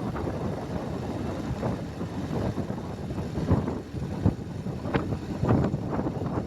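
Wind buffeting the microphone: an uneven low rumble with sharper gusts every second or so.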